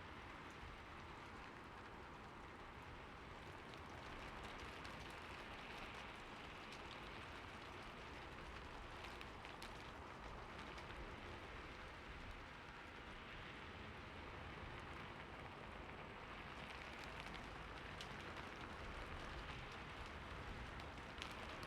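Slow, steady rain: a soft hiss of rainfall with scattered single drops ticking through it.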